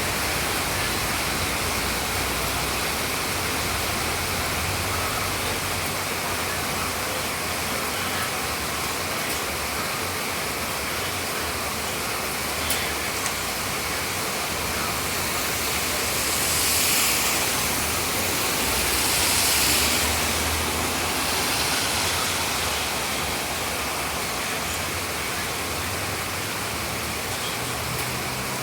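Steady rain falling, a continuous even hiss that swells louder twice in the second half, as if in heavier bursts or gusts.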